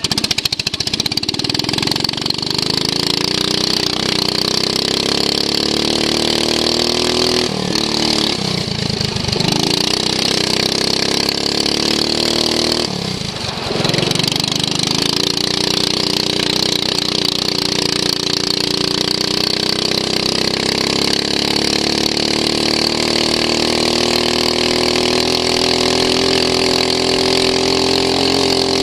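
Racing lawn mower's engine at full throttle, heard onboard, its pitch dropping twice as it eases off for corners, then climbing steadily as it accelerates.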